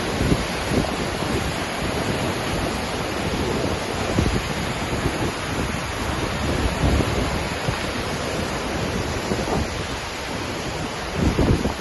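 Waterfall roaring steadily, a dense unbroken rush of falling water, with low gusts of wind buffeting the microphone, the strongest near the end.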